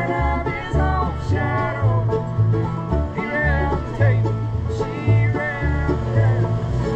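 Acoustic bluegrass band playing, banjo and guitar picking over a bass line that alternates between two low notes on a steady beat.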